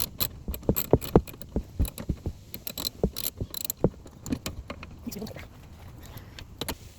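Irregular metallic clicks and knocks of an adjustable wrench snugging down bolts, thinning out after about four seconds.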